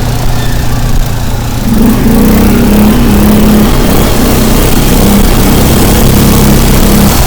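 An engine running steadily with a low hum, getting a little louder about two seconds in.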